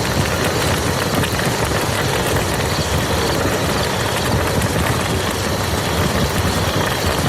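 Steady rain falling on a muddy field: a dense, even hiss of many small drop impacts over a low rumble.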